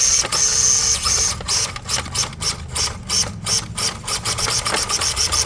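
Electric 1/10-scale RC rock crawler's motor and geared drivetrain whining, the throttle pulsed in short quick bursts that come closer together toward the end.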